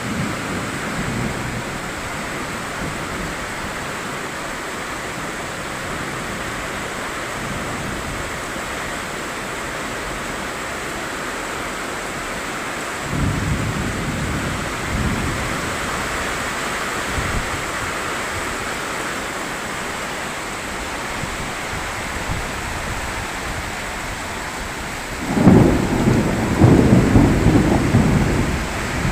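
Heavy rain pouring steadily. Over it come low rumbles: one about halfway through, and a louder, longer one starting near the end.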